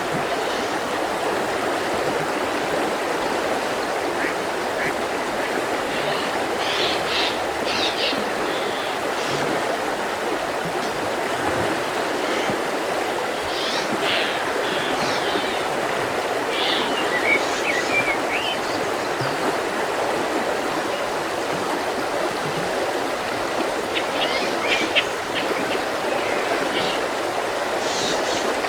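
Mountain river rushing steadily over rocks, with short bursts of small birds singing above it now and then.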